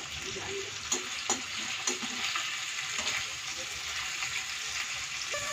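Pieces of wheat-flour pasta shallow-frying in ghee in a steel kadai, a steady sizzle, with a few sharp clinks of the slotted spoon against the pan.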